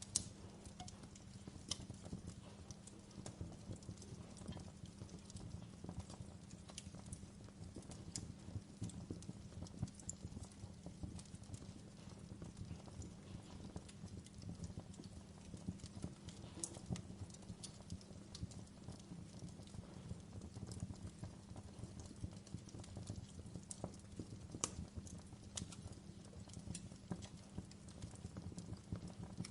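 Wood fire crackling in a fireplace: frequent small irregular pops and snaps over a low steady rumble of the flames.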